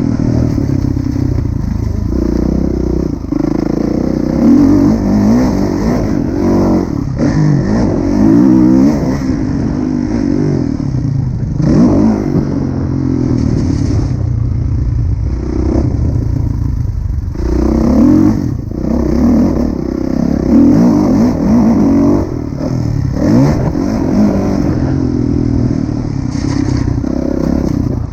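Kawasaki KX450F four-stroke single-cylinder motocross engine revving hard under riding, its pitch climbing and dropping over and over as the throttle is opened and closed.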